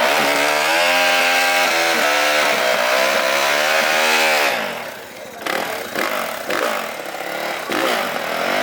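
A small off-road racing engine revving high for about four and a half seconds, its pitch climbing at the start and falling away near the middle. It then drops to a quieter, rougher running sound.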